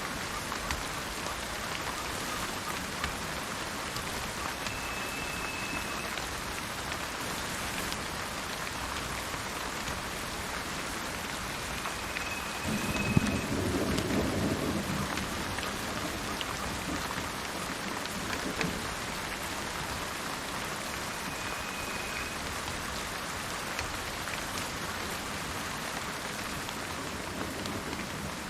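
Steady rain falling in a forest, with a low roll of thunder about halfway through. Three short, high whistled bird notes sound through the rain.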